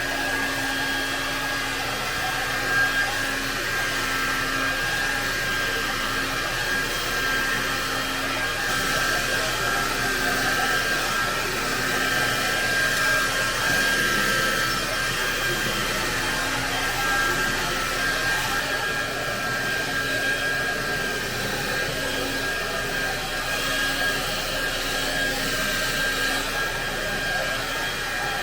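Handheld hair dryer running steadily while blow-drying hair: a constant rush of air with a steady high whine over it.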